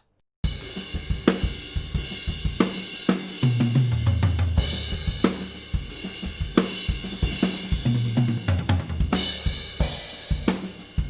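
Recorded drum kit playing a groove, with kick, snare, hi-hat and cymbals, heard through the floor room microphones. It starts about half a second in.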